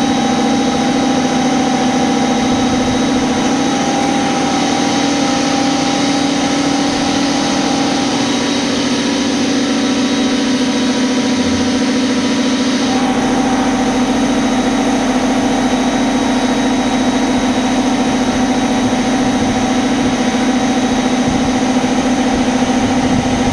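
CNC milling machine running steadily with a constant hum and whine. About halfway through, a hiss drops out while the machine keeps running.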